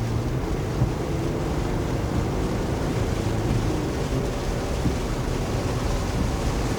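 Steady engine and road noise inside a truck driving in the rain, with rain and wind noise on the vehicle.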